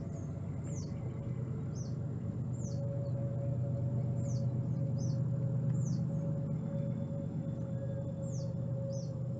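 A bird calling over and over with short, high chirps that fall in pitch, about one or two a second, over a steady low hum.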